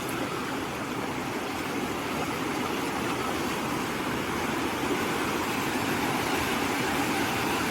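River water rushing steadily as it overflows across a road, a constant rush that grows slightly louder toward the end.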